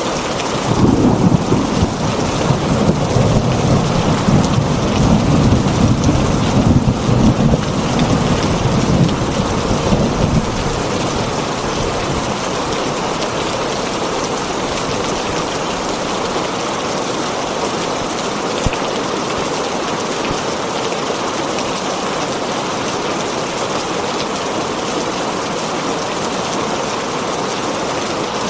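Heavy rain falling steadily on a tin roof, with a long low roll of thunder rumbling under it for about the first ten seconds before dying away.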